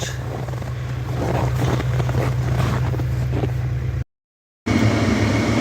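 Tractor engine running steadily with wind noise on the microphone. The sound cuts out completely for about half a second near the end, then the engine drone comes back a little louder.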